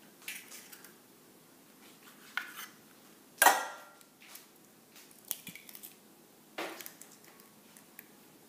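Eggs being cracked into a dish: a handful of sharp knocks and clinks against the dish, the loudest about three and a half seconds in.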